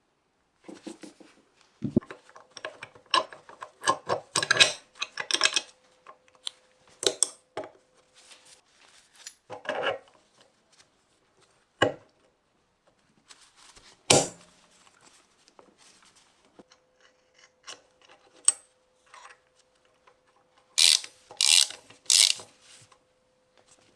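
Hand work on metal parts: irregular clicks, knocks and short scraping strokes of tools. A single sharp knock comes about halfway, and a quick run of louder scraping strokes comes near the end. A faint steady hum sits underneath.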